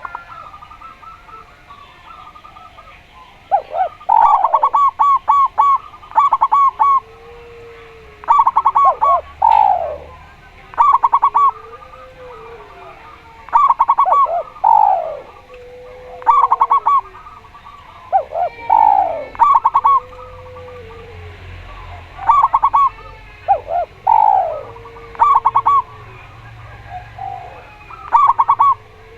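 Spotted dove and zebra dove cooing. Phrases of quick, rapid-fire notes with falling slurred notes repeat every couple of seconds, and lower, drawn-out coos fall between them.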